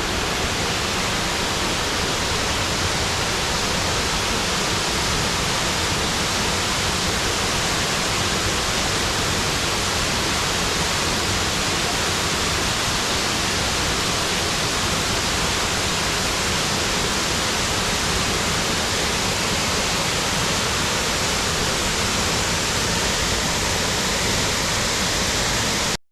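Dry Falls, a waterfall on the Cullasaja River, pouring close by: a steady, even rush of falling water. It cuts off suddenly at the end.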